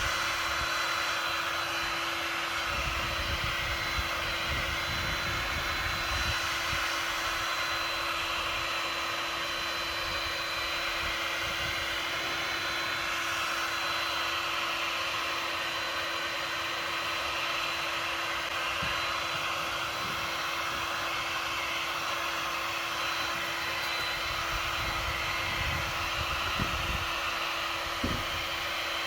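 Heat gun blowing hot air steadily, its motor humming at one constant pitch under the rush of air, as it warms a dented plastic bumper to soften it. There is a light knock near the end.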